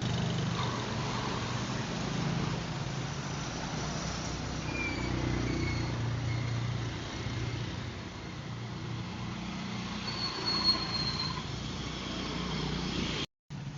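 A vehicle engine running steadily under a haze of road and wind noise, with a brief drop to silence near the end.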